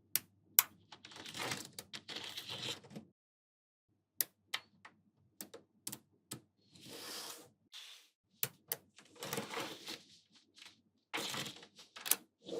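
Small magnetic balls snapping together with sharp clicks, between short stretches of dense rattling as groups of balls roll and clack against each other.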